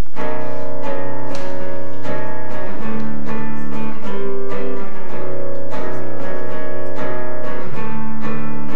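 Acoustic guitar playing strummed chords: the instrumental intro of a song before the singing comes in, with the chord changing a few times.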